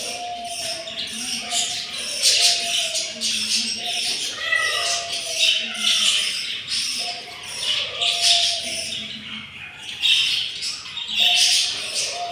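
Budgerigars chattering, with repeated short, harsh squawks and chirps.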